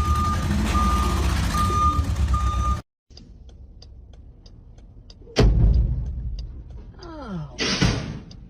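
A truck's reversing alarm beeping in even pulses over a loud engine running, cut off suddenly under three seconds in. After faint ticking, a heavy bang comes about five and a half seconds in, followed by a falling whine and a short loud burst of noise.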